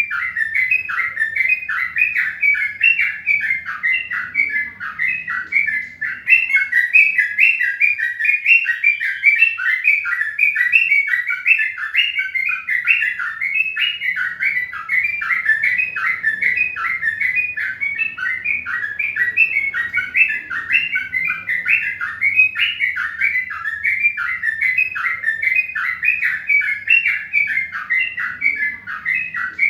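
Small birds chirping without pause: a dense, even run of short, falling chirps, several a second.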